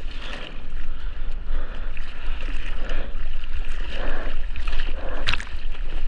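Seawater sloshing and splashing around a surfer's GoPro in the surf, over a steady low rumble of water and wind on the camera housing. A short sharp sound cuts through near the end.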